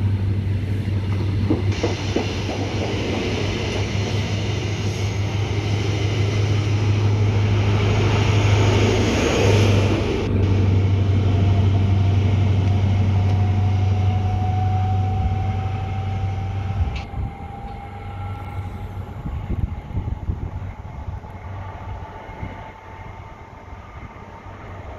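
A train passing on the line, its noise building to a peak about nine or ten seconds in and then dropping away sharply about seventeen seconds in.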